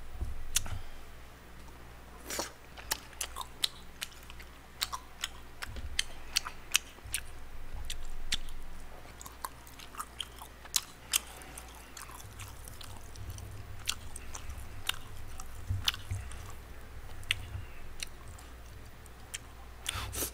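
Close-miked chewing of spicy tteokbokki rice cakes: many short, irregular smacks and clicks of mouth and teeth throughout.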